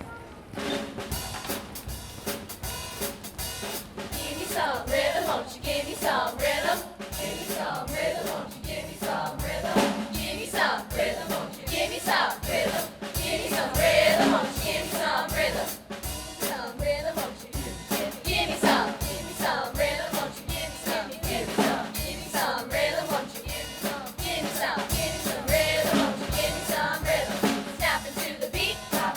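Large student choir singing with a drum kit keeping a steady beat underneath.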